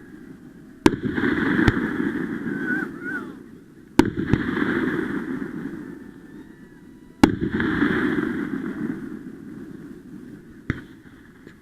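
Fireworks going off: three sharp bangs about three seconds apart, each followed by a few seconds of fading crackle and rumble, then a smaller bang near the end.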